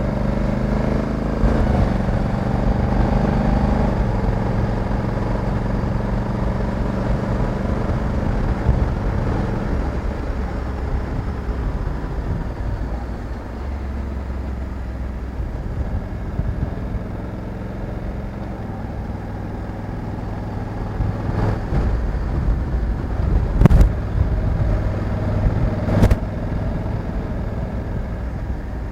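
Honda Africa Twin 1100's parallel-twin engine running under way, its note held steady for about ten seconds and then dropping to a lower, easier note. Three sharp knocks come in the last third.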